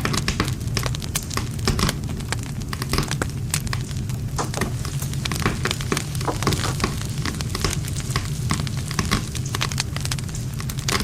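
Wood campfire crackling, with many sharp irregular pops and snaps of burning wood over a steady low rumble of the flames.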